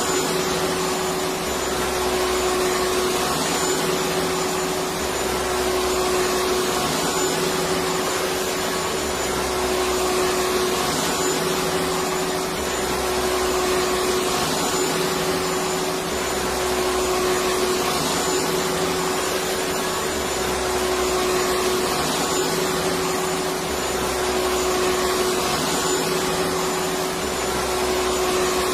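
Electric vacuum cleaner running steadily: a constant rush of air with a steady hum tone running through it, and a low throb that comes and goes about every two seconds.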